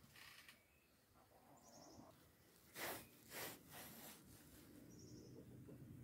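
Faint small-bird chirps, a few short trills, over quiet rural ambience. About halfway through there are two brief rustling swishes.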